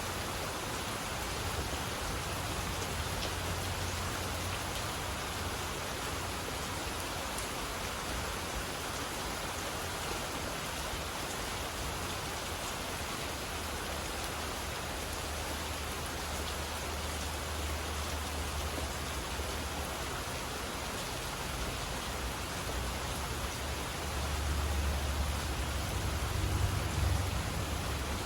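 Steady rain falling, an even hiss of drops, with a low rumble underneath that swells a few seconds before the end.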